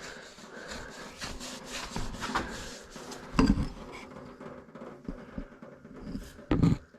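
Rubbing and scraping handling noises, with two short louder knocks about three and a half seconds in and near the end.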